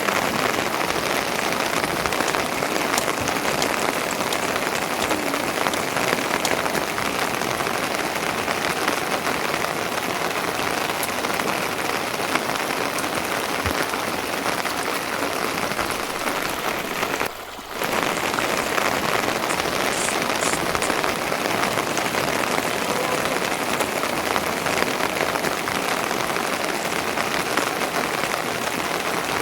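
Steady rain falling, an even hiss of drops that drops away for a moment a little past halfway through and then resumes.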